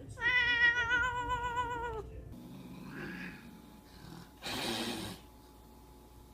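A domestic cat giving one long, wavering meow lasting nearly two seconds. A few seconds later comes a short rush of noise.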